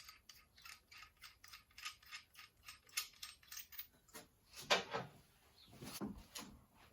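A small mechanism clicking rapidly, about five light clicks a second, then a few louder knocks near the end.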